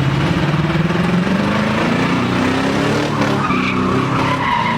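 Car engine revving hard, its pitch climbing over the first two seconds and then held high, with tyres squealing from about three seconds in, as in a burnout or donut.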